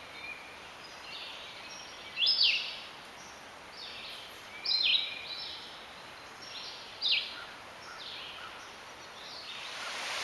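Red-eyed vireo singing: short, high whistled phrases, each followed by a pause, the loudest coming about every two and a half seconds with fainter ones between.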